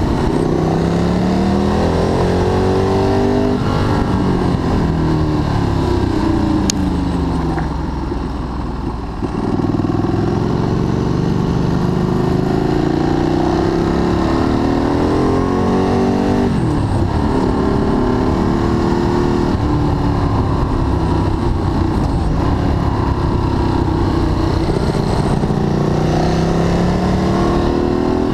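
Ducati Streetfighter 1098S's L-twin engine under way, revving up and dropping back again and again as it accelerates out of and slows into bends. It goes briefly quieter, with falling pitch, about eight seconds in.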